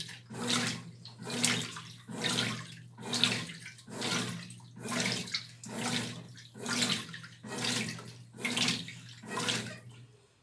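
Brastemp Tira Manchas Pro 12 kg top-load washing machine agitating: water and clothes sloshing in regular strokes about once a second over a steady motor hum. The strokes stop just before the end.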